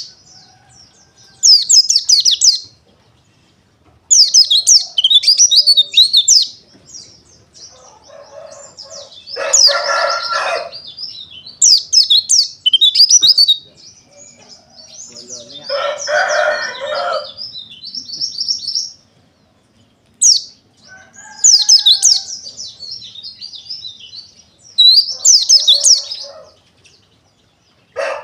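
White-eye (pleci dakun) singing in repeated bursts of fast, high twittering trills, each a second or two long with short gaps between. A few times a lower, longer call of about a second and a half joins in, like a rooster crowing.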